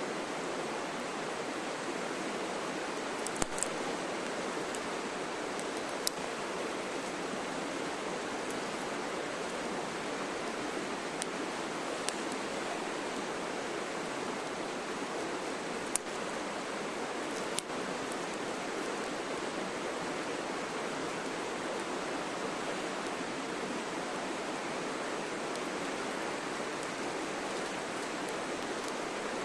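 Wood campfire crackling, with a handful of sharp single pops scattered through a steady rushing hiss.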